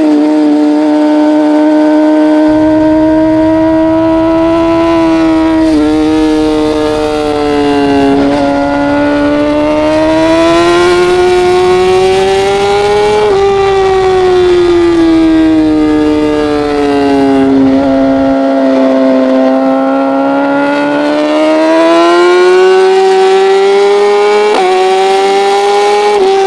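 Racing motorcycle's engine heard from onboard, running at fairly steady revs that slowly rise and fall, with brief breaks in the note a handful of times.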